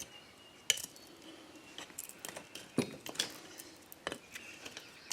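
Scattered sharp metallic clicks and clinks of hand tools working on a lawn mower tire and its steel rim, about five separate knocks with short pauses between them.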